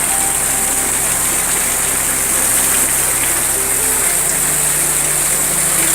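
Heavy rain and water pouring into a house through a leaking roof: a loud, steady rushing hiss with a low hum underneath that shifts abruptly about four seconds in.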